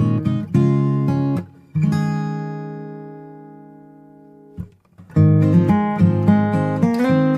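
Background music on acoustic guitar. Chords are picked and strummed, one chord is left to ring and fade out about two seconds in, and the playing picks up again about five seconds in.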